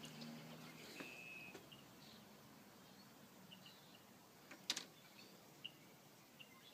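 Near silence with a few faint, short bird chirps, and a single sharp click a little past halfway.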